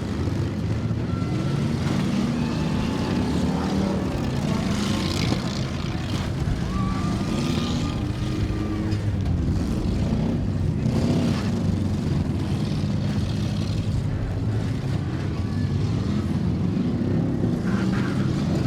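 Several demolition derby car engines revving and running at once, their pitches rising and falling, with a few sharp knocks along the way.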